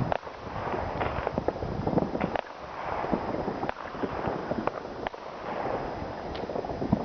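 New Year's Eve fireworks and firecrackers going off all around: many sharp bangs and pops at irregular intervals over a continuous background of crackling.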